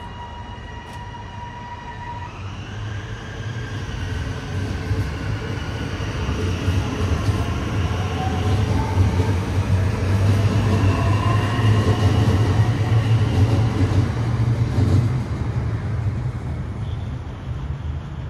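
A train passing: a low rumble under several whining motor tones that shift in pitch. It builds to its loudest around the middle and then fades.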